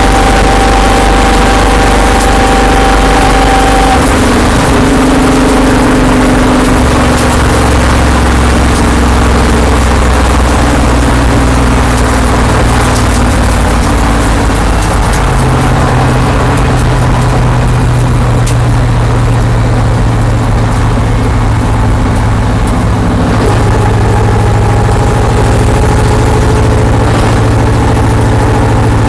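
Stock car's V8 engine running hard at speed, heard loud from inside the cockpit as one steady drone. Its pitch steps down and up a few times during the laps.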